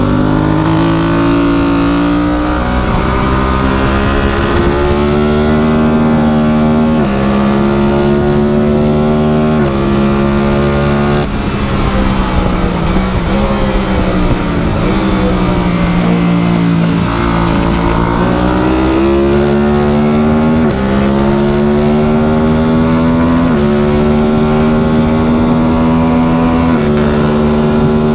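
Small engine running continuously. Its pitch holds steady for a few seconds, then steps up or down several times, sinks slowly around the middle and climbs back, as the throttle is changed.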